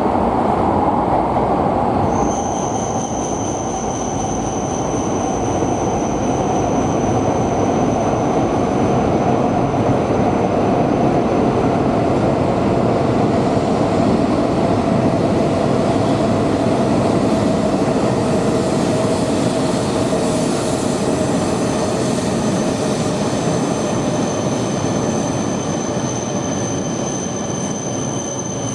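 Tohoku Shinkansen train pulling into the platform and slowing. Its running noise carries a mid-pitched motor whine that falls slowly in pitch as it decelerates. A high, steady squeal comes in about two seconds in, fades midway, and returns later.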